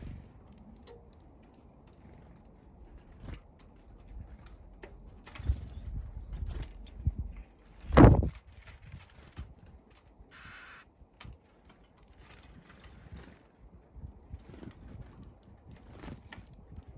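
Small birds at a window-mounted bird feeder, pecking and tapping on it in many quick irregular clicks, with softer thumps as they land and one loud knock about eight seconds in.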